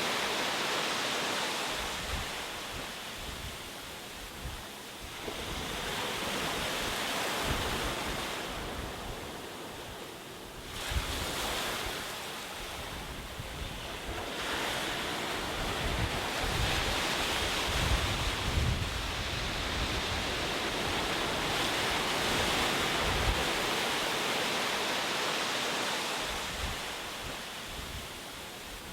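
Ocean surf: waves breaking and washing up the shore, the sound swelling and falling back in several slow surges.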